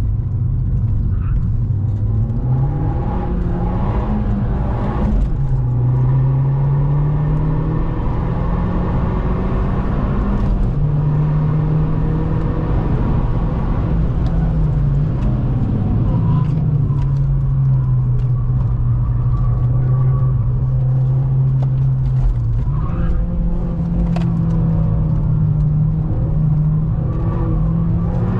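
Opel Astra OPC's turbocharged 2.0-litre four-cylinder engine under hard acceleration, heard from inside the cabin. The engine note climbs and drops several times as the car accelerates hard, changes gear and slows for corners.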